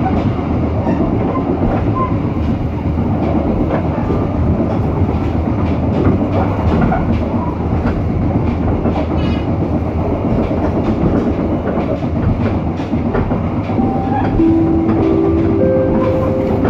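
Passenger train running on the rails, heard from inside the coach: a steady rumble with the clickety-clack of wheels over rail joints. Near the end, a few sustained tones come in one after another, one above the other.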